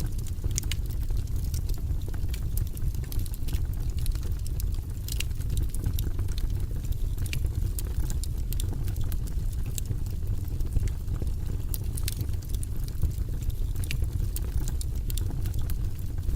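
Campfire burning, the wood crackling with frequent irregular snaps and pops over a steady low rumble.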